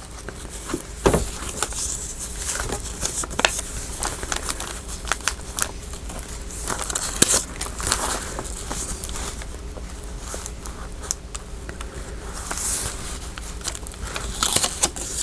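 Loose paper scraps and ephemera being sorted and shuffled by hand on a desk: irregular rustling and crinkling with light sharp ticks and taps throughout.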